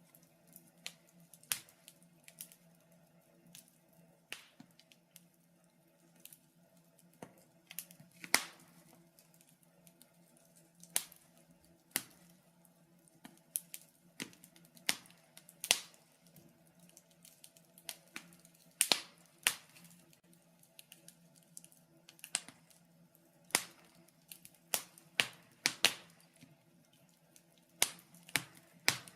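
Wood fire crackling in a fireplace: irregular sharp pops and snaps, several every few seconds, over a faint steady hum.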